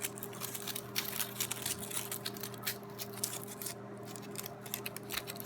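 Aluminium foil crinkling in quick, irregular crackles as crumpled foil strips are wound and twisted together by hand.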